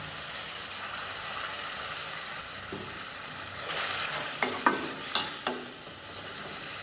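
Onion-and-spice masala sizzling as it is fried down in an aluminium karahi. A steel spoon starts stirring it after a few seconds, with several sharp clinks of spoon against pan around four to five seconds in.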